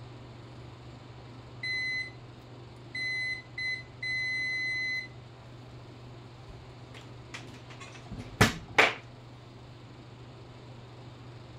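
Multimeter continuity buzzer beeping four times in one steady high tone, short and broken at first, the last beep about a second long. A few seconds later come some light clicks and two sharp knocks about half a second apart.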